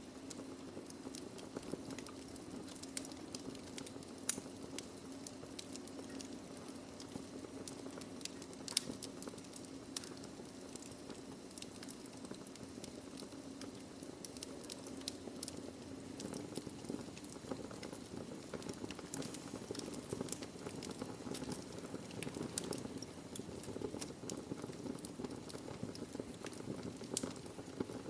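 Wood fire burning in a fireplace: a steady low rush of flame with frequent small crackles and pops of burning logs, a couple of louder pops standing out about four and nine seconds in.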